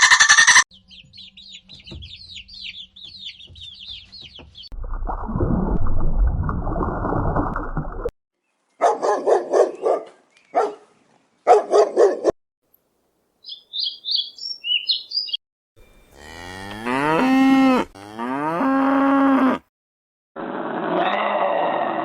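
A string of different animal calls cut one after another: high chirping, a low rough stretch, short repeated calls, and then two long cow moos that slide down in pitch and hold steady.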